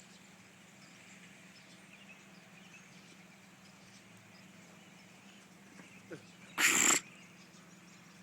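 One short, loud bark about two-thirds of the way in, over a faint background with light bird chirps.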